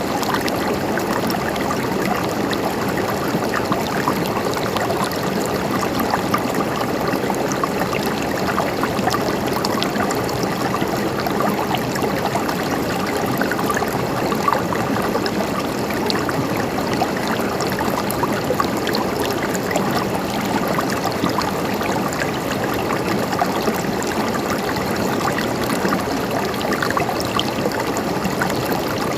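Stream water gurgling and trickling steadily, with many small splashes and no change in level.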